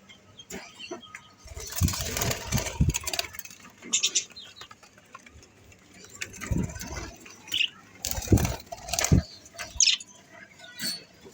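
Budgies flapping their wings and rustling in several short bursts.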